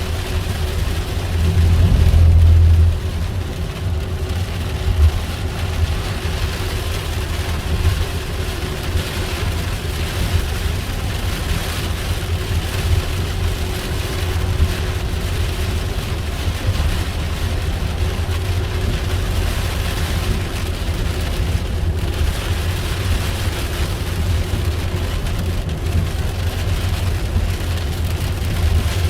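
Vehicle cabin noise while driving: a steady low rumble of road and engine with an even hiss above it, swelling louder for about a second and a half near the start.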